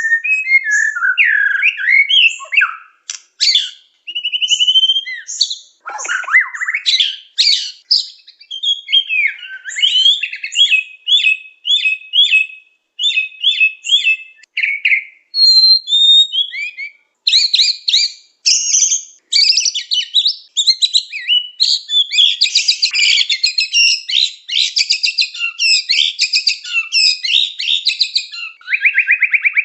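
White-rumped shama (murai batu) singing a long, varied song of whistles, slides and chirps. In the second half the phrases turn into fast, dense trills with hardly a pause.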